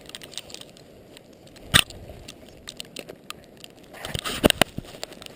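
Irregular crunching and scuffing in deep fresh snow as a dog runs up, with one sharp thump about two seconds in and a quick cluster of crunches near the end.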